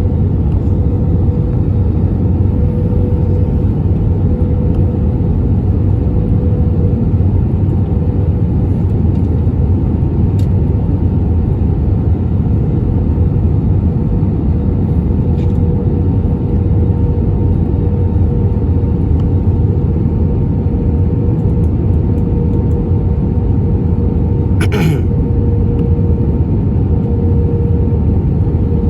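Cabin noise inside an Airbus A320neo with the engines running: a steady deep rumble with a steady humming tone over it. There is one short sharp sound about 25 seconds in.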